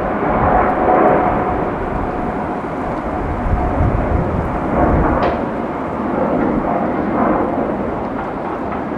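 Four GE GEnx-2B engines of a Boeing 747-8F freighter at takeoff thrust: a loud, rumbling jet noise that swells and eases slightly.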